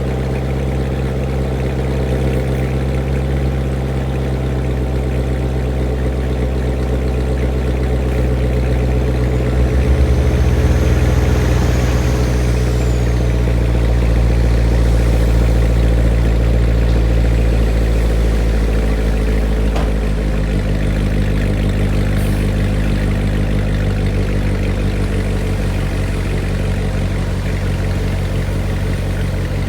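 Chevrolet Corvette C7's V8 idling steadily on a cold start through its NPP performance exhaust. The exhaust note shifts slightly about two-thirds of the way in.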